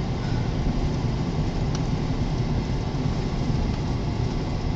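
Cabin noise of a car driving slowly: a steady low rumble of engine and tyres with a hiss of gusting blizzard wind against the car.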